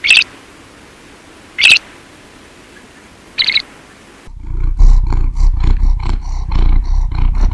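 Animal calls: three short, high-pitched calls about a second and a half apart, then from about four seconds in a loud, low, pulsing rumble from a large animal.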